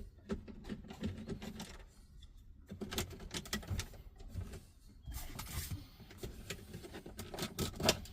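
Irregular clicks, taps and rattles of a Torx driver and plastic dashboard trim being worked loose, with a short scraping hiss about five seconds in.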